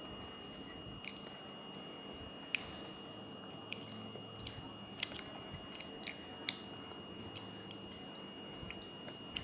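Close-up chewing of pieces of a water-soaked clay kulhad cup, with scattered sharp crunches at irregular intervals.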